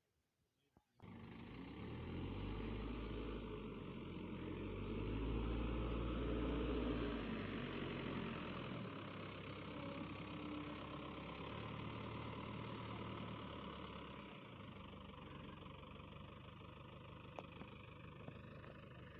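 Diesel engine of a heavy farm machine running. It starts suddenly after a second of near silence, grows louder for a few seconds in the middle, then settles back to a steadier run.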